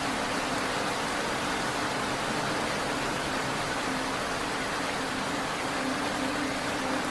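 Steady rain falling, an even continuous hiss with no separate drops or thunder standing out, over a faint low steady hum.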